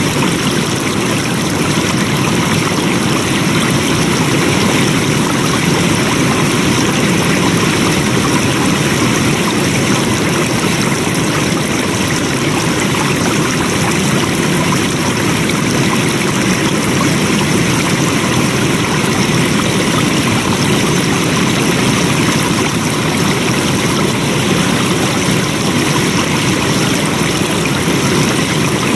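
Flowing water running steadily, an even rushing without a break.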